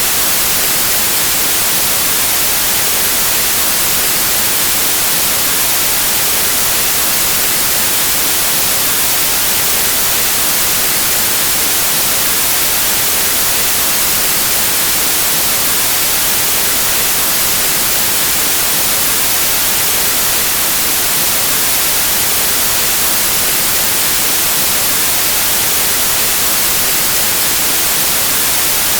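Steady white noise, an even electronic static hiss spread evenly across the whole range of pitch, with no change or break.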